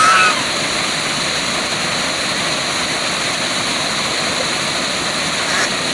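Steady rush of a waterfall. A short pitched animal call sounds at the very start.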